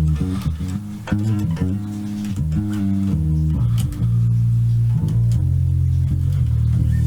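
Electric bass played through an amp-head model and an 8x10 cabinet model in IK Multimedia Amplitube 5 (SVX500 head into an Orange 8x10 OBC cab). It plays a run of quickly changing notes, then long held low notes from about four seconds in.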